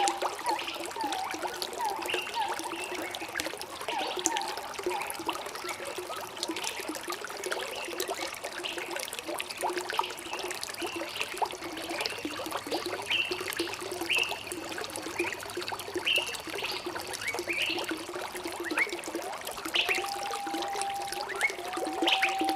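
Running water trickling and gurgling steadily, with birds chirping over it: many short repeated chirps, and a longer whistled note near the end.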